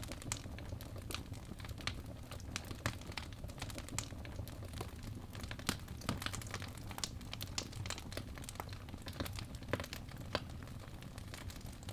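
Wood fire crackling in a fireplace: a steady low rumble of flames with irregular sharp pops and snaps, several a second.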